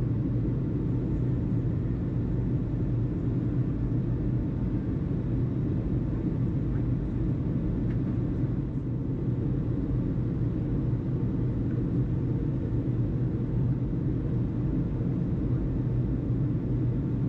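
Steady low rumble with a constant low hum, unchanging throughout.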